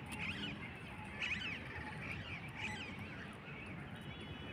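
Birds calling: a series of short calls that rise and fall in pitch, coming about once a second over a steady low background din.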